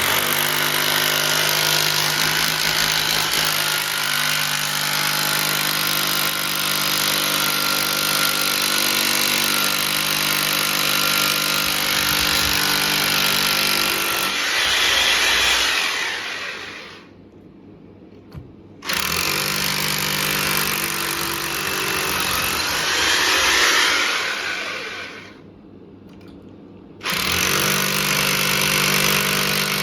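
Electric drill running under load, boring holes for the wall fixings. It runs for about sixteen seconds and spins down, starts again about a second and a half later for about six seconds, spins down, and starts a third time near the end.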